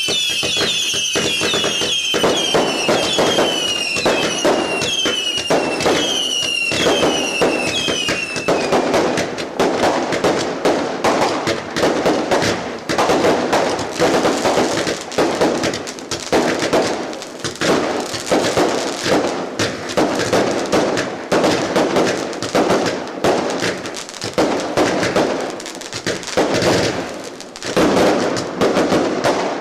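A dense barrage of fireworks: rapid, continuous bangs and crackling. For about the first eight seconds, repeated whistles that fall in pitch sound over the bangs.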